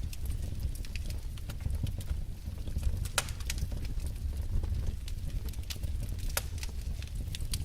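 Wood fire burning in a fireplace: irregular sharp crackles and pops from the burning logs over a steady low rumble of the flames, with the loudest pops a little after three seconds and again past six seconds.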